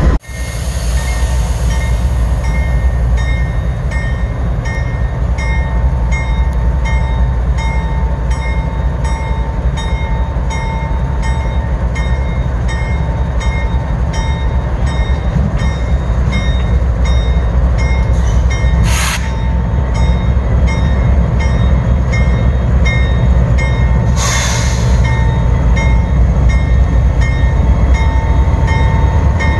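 Freight train rolling past close by: a steady, loud rumble of the cars with a regular, repeating pattern of clicks and ringing tones from the wheels on the rails. Two brief bursts of hiss or squeal come about two-thirds of the way through.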